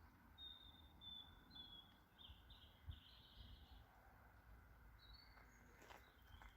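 Faint songbird singing: a run of short high notes that turns into a quicker, buzzier trill, with one more short call about five seconds in, over a low outdoor rumble.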